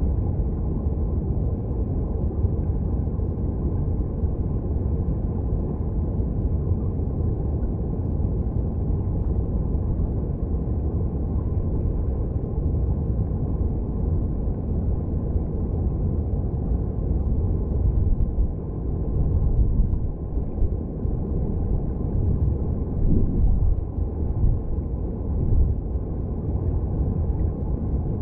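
Mountain stream heard underwater through a submerged microphone: a steady, muffled, deep rush of flowing water, wavering more in the last third.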